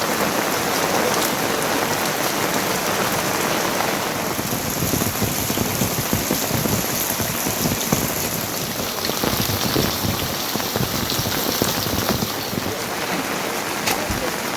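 Heavy rain falling steadily, drops spattering on surfaces in an even, unbroken hiss.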